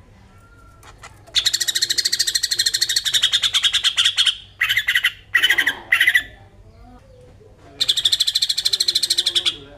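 Cucak ijo (green leafbird) giving its "besetan": a rapid, harsh rattling trill about three seconds long, then four short bursts, then a second rattling trill of about two seconds near the end.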